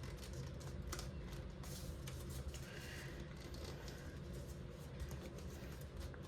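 Origami paper being folded and creased by hand: faint, scattered crinkles and light ticks as the wings of a paper jet are folded up, over a steady low hum.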